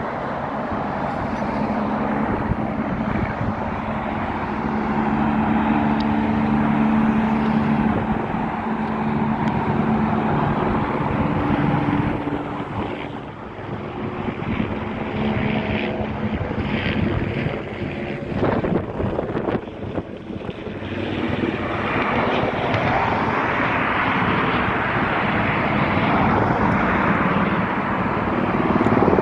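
Aircraft circling low overhead: a steady engine hum with rushing noise, dipping for a few seconds in the middle, then growing louder again.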